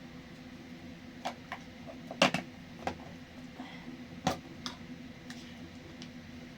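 Scattered light knocks and clicks, about eight in all, the loudest a quick double knock a little over two seconds in, over a steady low hum.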